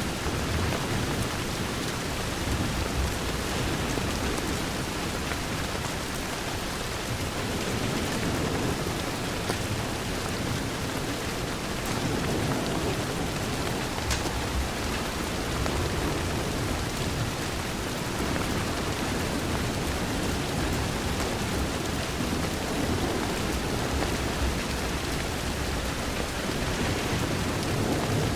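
Steady rain pattering on a window, with a low, rolling rumble underneath and a few faint sharp ticks.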